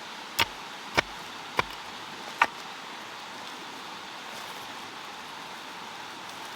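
Four sharp knocks, a little over half a second apart, over a steady hiss.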